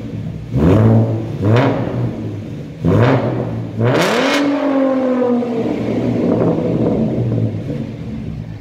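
2014 Ford Mustang 3.7-litre V6 revved through a muffler-delete stainless steel catback exhaust. There are four quick throttle blips, the last and highest about four seconds in, then the revs fall back slowly to a steady idle.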